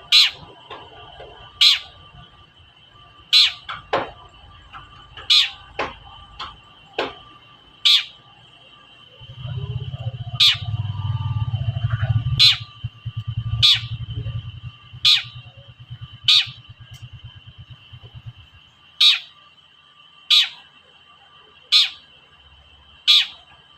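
Long-tailed shrike (cendet) giving short, sharp call notes, one about every one and a half seconds, over a steady high ringing tone. A low rumble runs through the middle for about nine seconds.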